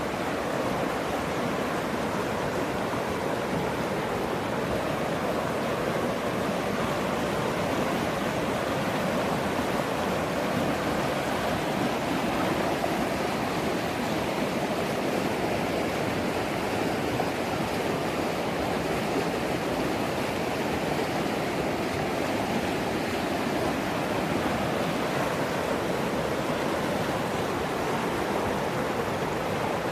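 Storm-swollen East Fork San Gabriel River rushing, a steady wash of fast-moving water that never lets up.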